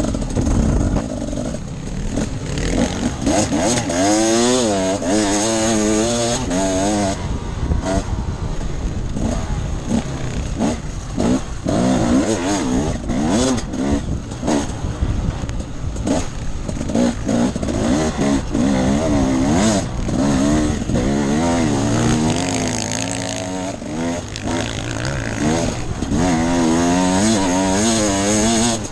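Off-road enduro motorcycle engine being ridden hard, its revs rising and falling again and again with the throttle, with frequent short knocks and clatter over it.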